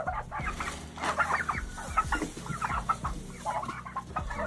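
Domestic poultry clucking and chattering, many short calls in quick succession.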